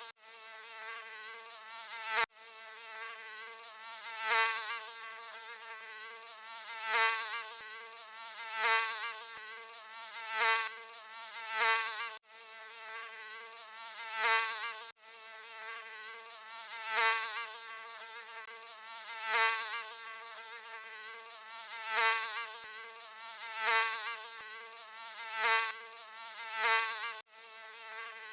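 Mosquito in flight, a continuous whining buzz of wingbeats with a wavering pitch and many overtones. It swells loud and fades back every two to three seconds, and cuts out for an instant four times.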